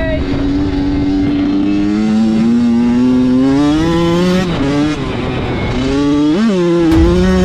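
Motorcycle engine accelerating, its pitch rising steadily for about four seconds, dropping at a gear change, then climbing again, with a short sharp rev blip about six and a half seconds in.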